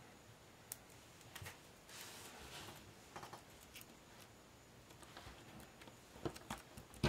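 Faint rustling and scattered light taps and clicks of a paper card and its embellishments being handled and pressed into place.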